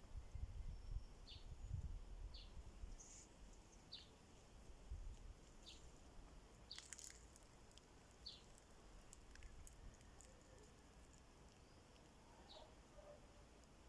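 A small bird calling faintly, a short high note repeated every second or two, with a pause late on. A low rumble of wind or handling noise sits under the first couple of seconds.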